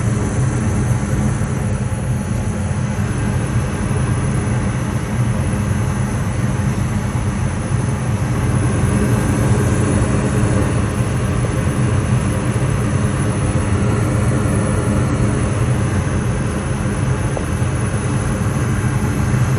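Home furnace running: a steady, even low drone with a faint hiss above it, unchanging throughout.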